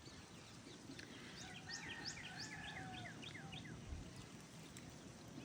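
A bird singing a quick run of short, repeated chirps about a second and a half in, over a steady outdoor hiss.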